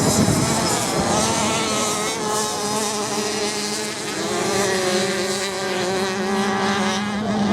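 Racing motorcycle engines running on the sand course: a loud, rough engine sound at the start gives way to steadier engine notes that rise slightly and then hold their pitch.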